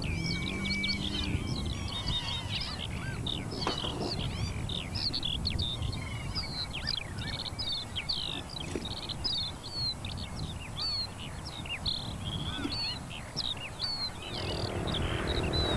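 Many small birds chirping and twittering in quick, short, sliding notes over a low steady rumble. Near the end a hiss and a low hum swell up.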